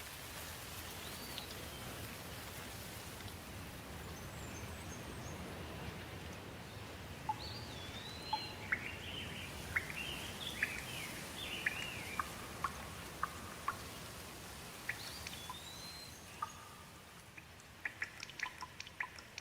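Steady rain, with birds calling over it through the middle: strings of short chirps and rising-and-falling whistles. Near the end the rain thins and single water drips tick in, a few a second.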